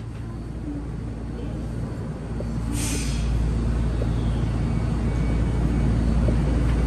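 Commuter train carriage running, its low rumble and hum growing steadily louder as the train gathers speed, with a brief hiss about three seconds in.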